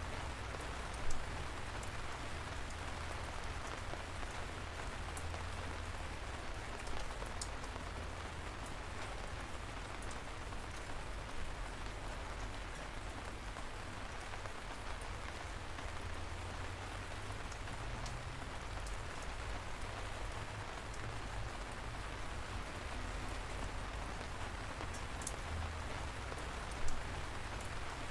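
Light rain falling steadily, an even hiss over a low rumble, with a few single drops ticking out close by now and then.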